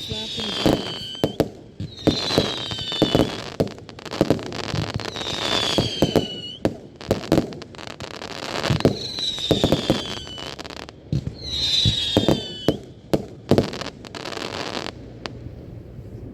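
Fireworks display: repeated bangs and crackling bursts, with five whistles that each slide down in pitch. The bursts die away about fifteen seconds in.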